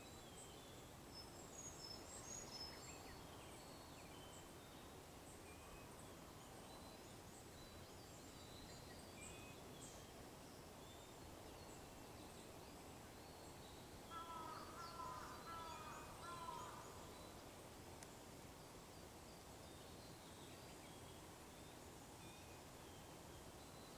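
Faint wild birdsong over a steady outdoor hiss: scattered high chirps throughout, and a louder run of lower, wavering calls a little past halfway.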